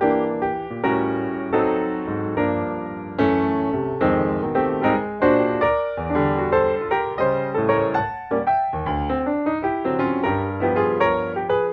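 Background piano music: a melody of struck notes over chords, each note starting sharply and fading.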